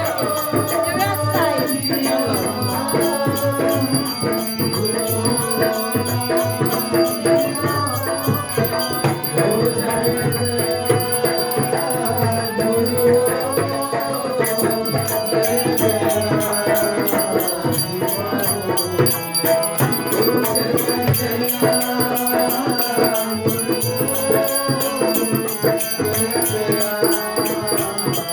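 Arti, a Hindu devotional hymn, sung to a steady shaking rattle.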